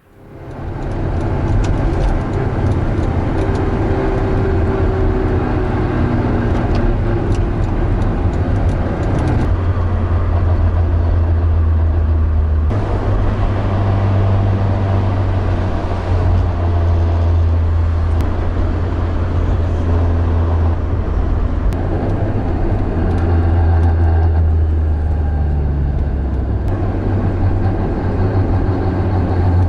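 Honda S2000's 2.0-litre four-cylinder engine running steadily at idle, starting abruptly and holding loud and even.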